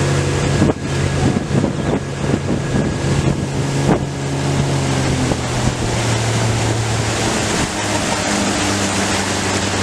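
Motorboat engine running steadily at speed with a low hum, under rushing water and wind buffeting the microphone.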